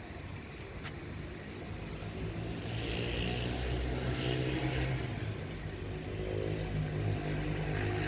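A steady low engine hum that grows louder about two seconds in and then holds.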